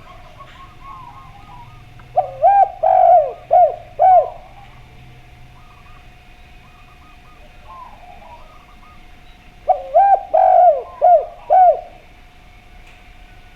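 Dove cooing: two phrases of about five quick, rising-and-falling notes, some seven seconds apart. Under them are a faint steady tone and soft chirping from other birds.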